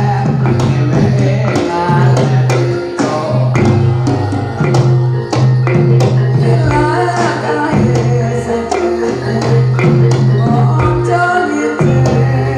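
Javanese jathilan music played live: a held low note that keeps restarting, a melodic line above it and frequent sharp drum strokes, with what may be a singing voice.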